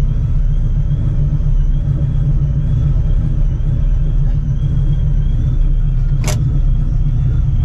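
Supercharged 4.6-litre 2V Mustang GT V8 running steadily through open exhaust cutouts off the X-pipe: a loud, even low rumble. A single sharp click about six seconds in.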